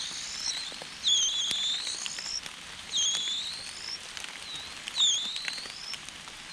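A bird calling repeatedly: a clear call that dips and then rises in pitch, each about half a second long, three times about two seconds apart, over faint crackling and clicks.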